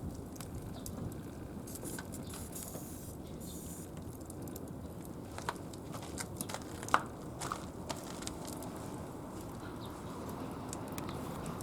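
Wood fire burning in a brick kamado, a steady rush of flame with scattered sharp crackles and pops, the loudest about seven seconds in.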